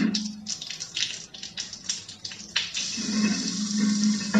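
Rain falling, a steady hiss with a run of short crackles in the first half, and a low steady hum underneath that comes back in the second half.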